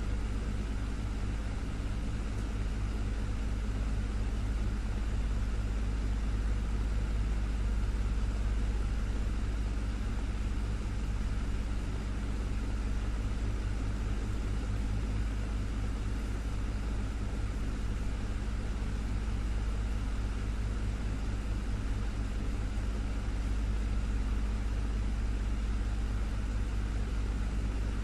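Desktop fan running steadily: a low motor hum with a few steady tones under an even rush of air.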